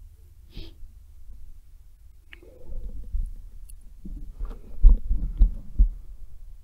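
Irregular low thuds and rubbing on the microphone, most of them in the second half, over a steady low rumble: handling noise from a hand-held camera.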